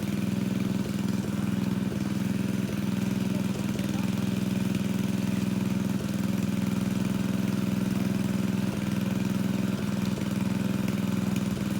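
Engine of a water pump draining a fish pond, running steadily at a constant speed.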